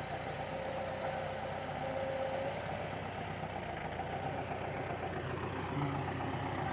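Massey Ferguson 260 tractor's diesel engine idling steadily.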